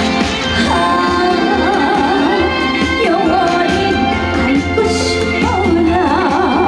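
Trot song performed live: a melody sung with wide vibrato over amplified band backing with a steady bass beat.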